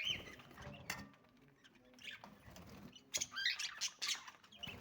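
Budgerigars chirping and chattering in short, quick calls, busiest near the end, with a few sharp clicks.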